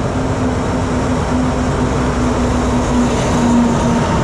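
Diesel locomotive hauling a passenger train into the station and passing close by: a loud, steady engine drone over the rumble of wheels on the rails.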